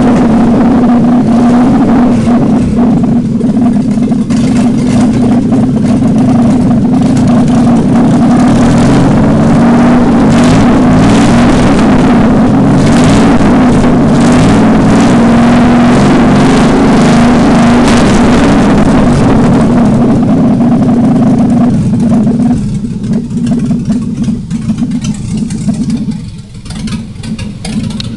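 GM Vortec 4.3 V6 with no exhaust fitted, running loudly at a raised, steady speed, then dropping back to a lower idle about 22 seconds in. It is running for the first time after about six years unused.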